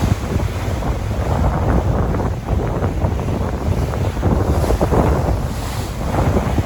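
Sea waves washing ashore with strong wind buffeting the microphone, giving a continuous loud low rumble under the surf.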